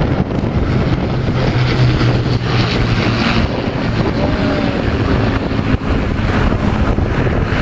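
Piston-engined Second World War propeller aircraft droning steadily in flight, with wind buffeting the microphone.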